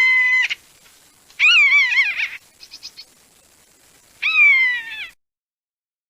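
A bird of prey calling three times: long, high, clear cries, the second wavering in pitch and the last falling. The sound cuts off abruptly about five seconds in.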